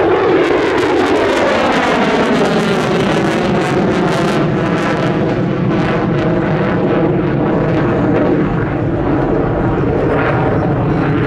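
F-35B Lightning II's F135 jet engine on a pass: loud jet noise whose whine drops in pitch as it goes by, with a crackle over the first few seconds.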